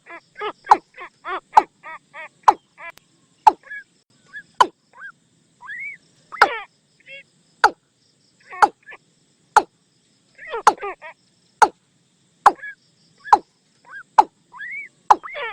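Watercock calls played as a lure. A fast run of pitched notes at the start gives way to sharp, clipped call notes about once a second, with short rising whistled notes and another quick run of notes about two-thirds of the way through.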